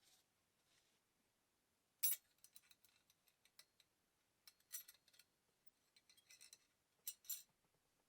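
Faint, scattered metallic clicks and clinks of small metal parts being handled, with a sharp clink about two seconds in and clusters of lighter ticks around five and seven seconds in.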